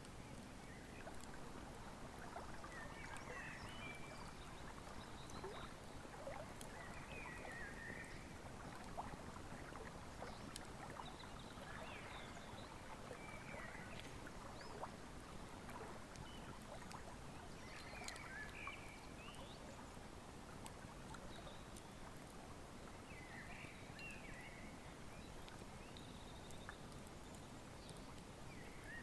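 Faint, steady rush of a flowing river with a wood fire crackling in scattered small pops. Short bird chirps come every few seconds.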